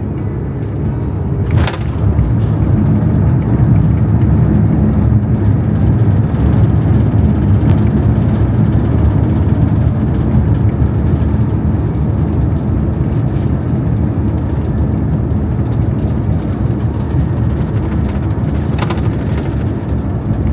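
Airbus A350-900 landing, heard inside the cabin: a sharp knock under two seconds in, then a loud, steady low roar of the engines and airflow that slowly eases.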